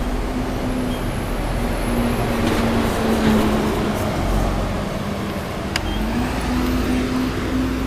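Road traffic: a vehicle engine's hum that sags in pitch and climbs again, over a steady wash of traffic and wind noise, with one sharp click near the end.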